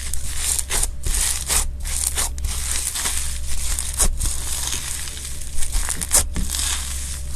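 Slime being squeezed and pressed by hand, making a steady crisp crackling and crunching with brief pauses and a few sharper pops.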